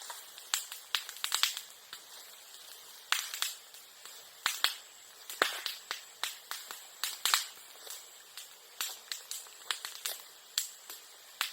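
Bonfire of bamboo and sasa crackling, with irregular sharp pops several times a second.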